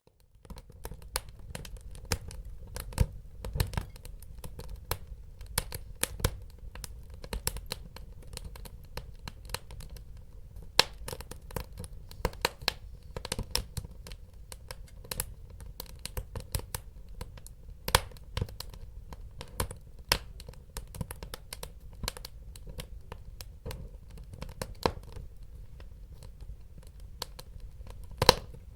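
Wood fire crackling: irregular sharp pops and snaps, a few louder than the rest, over a low steady rumble of burning.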